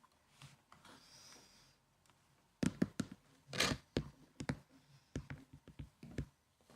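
Hands on a laptop keyboard: an irregular scatter of key clicks and heavier knocks starting about two and a half seconds in, with a short rustle among them.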